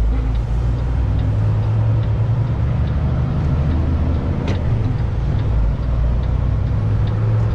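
Heavy truck's diesel engine running with a steady low drone through a slow, tight turn, with a single brief click about four and a half seconds in.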